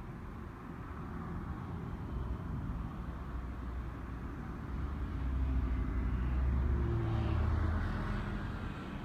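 Keikyu electric train running past, a low rumble that swells about five seconds in and fades toward the end.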